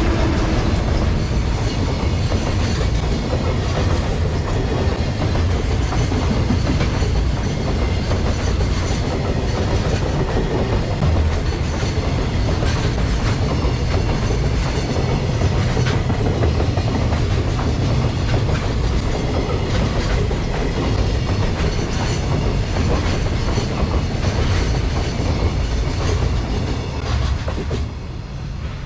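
JR Freight container train hauled by an EF210 electric locomotive passing at speed: a long, steady rumble of wagon wheels on the rails that dies away near the end as the train clears.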